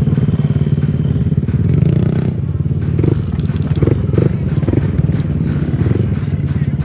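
Motorcycle engine running close by with a loud, rapid steady putter from an open, unbaffled "trondol" exhaust, rising briefly about three to four seconds in.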